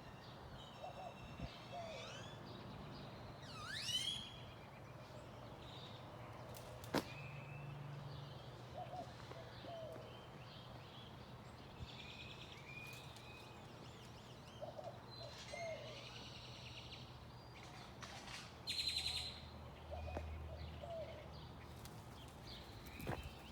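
Several birds chirping and calling, with short whistled notes and trills scattered throughout over a faint steady background. A louder sweeping call comes about four seconds in, a single sharp tick about seven seconds in, and a louder buzzy trill just before twenty seconds.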